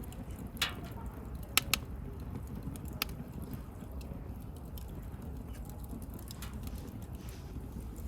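Wood bonfire crackling: a few sharp pops from the burning wood, two close together about a second and a half in, over the low steady sound of the flames.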